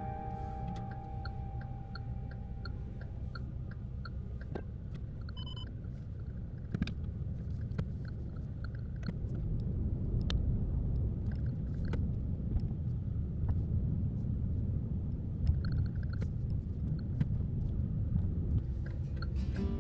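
Low, steady road rumble as heard inside a moving car, growing somewhat louder partway through, with scattered light clicks and a faint, even ticking in the first few seconds.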